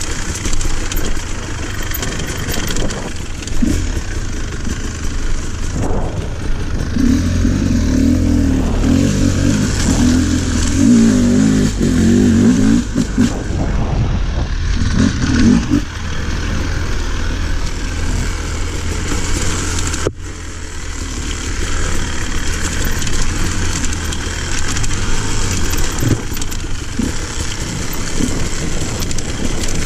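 Off-road motorcycle engine running while being ridden along a dirt trail, its pitch rising and falling with the throttle, hardest on the throttle from about 7 to 16 seconds in. About 20 seconds in the engine briefly drops off, then picks up again.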